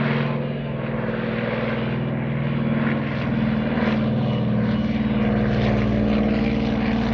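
Propeller airplane's piston engine running steadily, a low even drone with noisy propeller wash.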